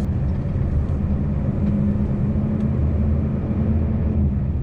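Scania V8 truck engine running steadily while the truck drives slowly, a low even drone.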